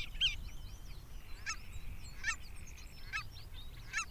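Wild birds calling: four sharp, high calls spaced about a second apart, over a busy background of many other chirping calls.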